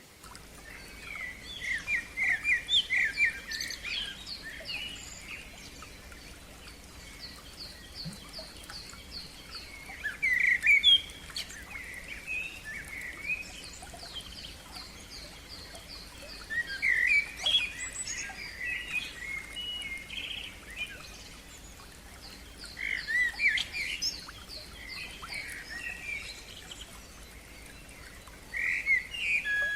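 Songbirds singing: loud chirping phrases come about every six seconds, with fast runs of thin, high repeated notes between them.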